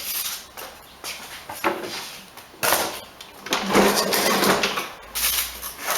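Irregular rustling and knocking from handling the lawnmower, in several separate bursts, the loudest a little past halfway; the engine is not heard running.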